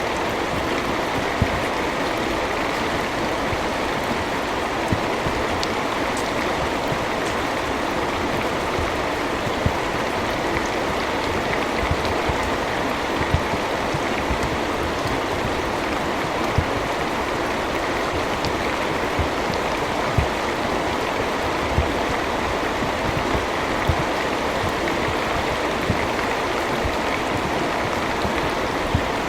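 Heavy rain falling steadily, a dense even hiss with an occasional sharper, louder drop landing close by.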